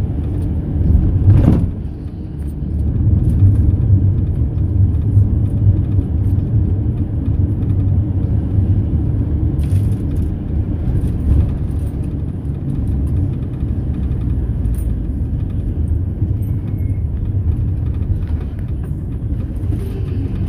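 Mercedes-Benz Sprinter minibus on the move, its engine and road noise heard from inside the cabin as a steady low rumble, with a sharp knock about a second and a half in.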